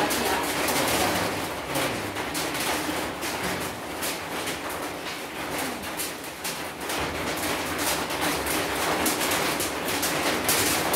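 Heavy rain falling, a loud steady hiss thick with sharp spattering.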